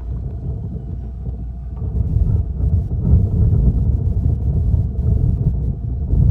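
Wind buffeting the microphone on an open fishing boat, a low, uneven rumble that grows louder about two seconds in.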